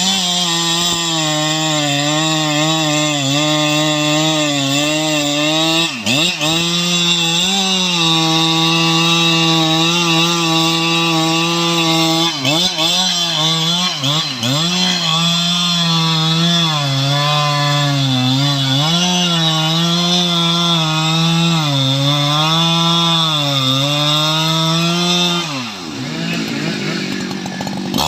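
Stihl MS 881 chainsaw cutting teak wood at full throttle, its engine pitch repeatedly sagging and recovering as the chain loads up in the cut. The engine eases off briefly near the end and then revs up again.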